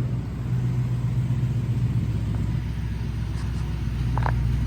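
1992 Ford Mustang LX engine idling steadily, a little over a minute after a cold start.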